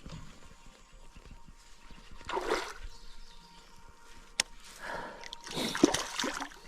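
Water splashing beside a kayak in a few short bursts, with a single sharp click a little past the middle.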